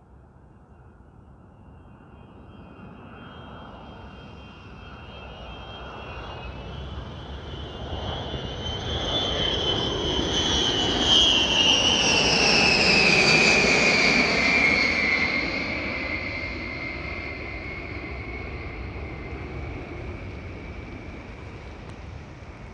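An aircraft flying past. It grows louder to a peak about halfway through, then fades, with a high engine whine that drops in pitch as it goes by.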